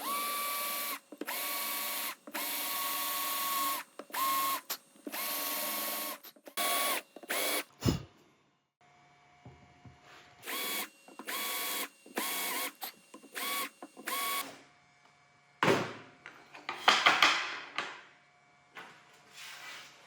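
Small electric power-tool motor switched on and off in a dozen or so short bursts, its pitch rising quickly each time it starts. Near the end comes a louder noisy clatter of handling.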